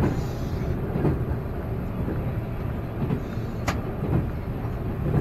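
Passenger train running, heard from inside the carriage: a steady low rumble of wheels on rails, with a few soft thumps and one sharp click near the end.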